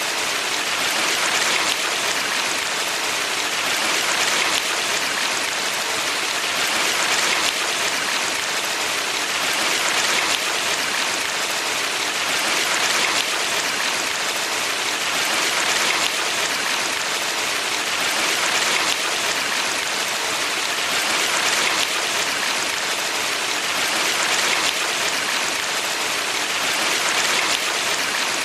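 Valley stream water rushing steadily over rocks, an even hiss that swells gently every couple of seconds.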